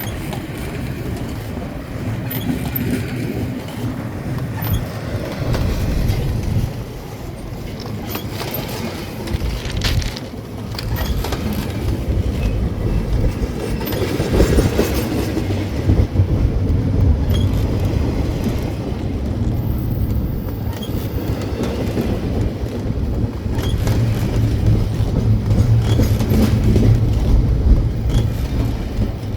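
Slow double-stack container freight train rolling past: a steady low rumble of steel wheels on the rails, with scattered clicks.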